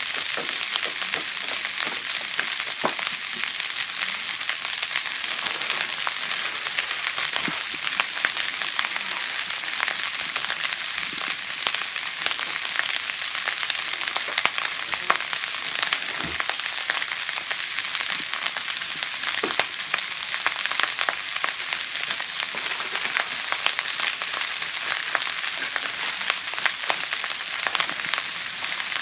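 Vegetable fried rice frying in a large pan over high heat, left unstirred: a steady sizzling hiss with scattered crackles and pops.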